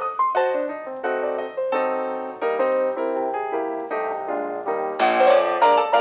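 Background piano music: a melody of separate struck notes, fuller and louder near the end.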